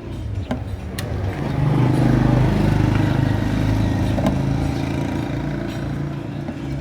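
A motor vehicle engine going past, growing louder about a second and a half in and fading over the next few seconds.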